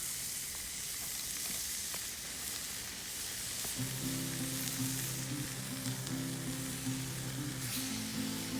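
Food frying on a hot iron plate, a steady sizzle, with background music coming in about four seconds in.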